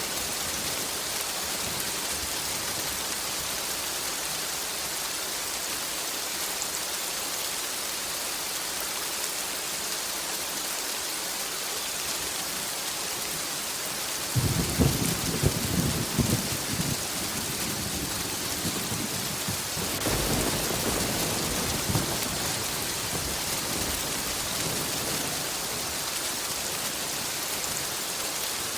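Steady heavy rain hissing, with a crack of thunder about halfway through followed a few seconds later by a longer rolling rumble of thunder.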